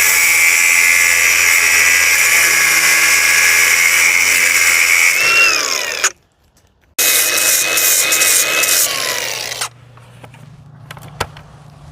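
Angle grinder grinding down steel welds, a loud high whine with harsh grinding noise, in two runs with a short break between them. Each run ends with the whine dropping as the disc spins down.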